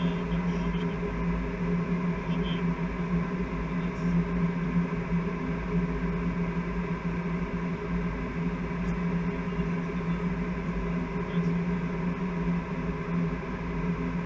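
Steady cockpit noise on a Boeing 747-400 flight deck: a constant drone of rushing air and machinery, with a low hum and a fainter higher tone, unchanging throughout.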